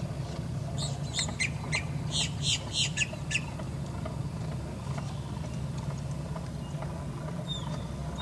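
A bird calling a quick series of about nine sharp, high notes, roughly three a second, over a steady low hum.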